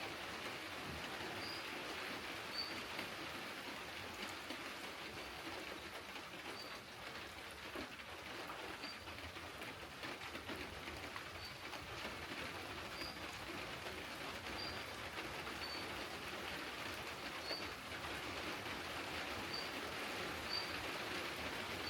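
Steady rain falling in woodland, with a small bird giving short, high single calls about once a second.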